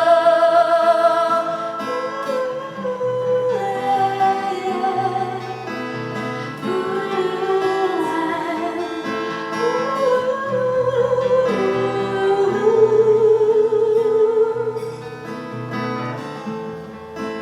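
A singer singing over a strummed acoustic guitar, holding some long notes.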